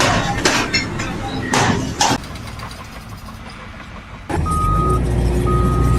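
A series of loud, short bursts of noise, then about four seconds in a vehicle reversing alarm beeping about once a second over a steady engine rumble.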